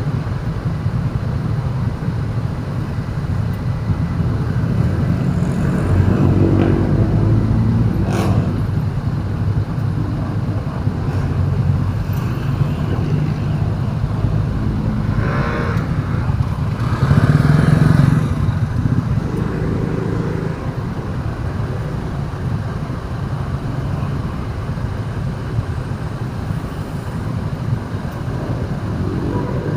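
Busy road traffic with a steady low engine rumble and motorcycles passing. Louder vehicles go by several times, the loudest a little past the middle, and there is a single sharp click about eight seconds in.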